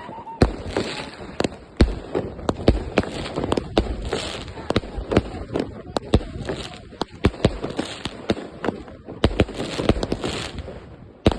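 Fireworks and firecrackers going off in a rapid, irregular string of sharp bangs, about two or three a second.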